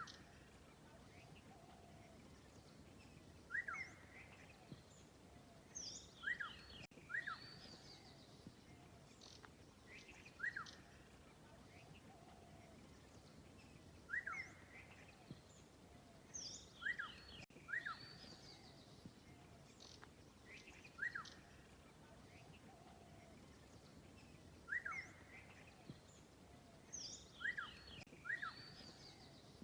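Birds chirping: short, sharp calls in groups of two or three every few seconds, over a faint steady background noise.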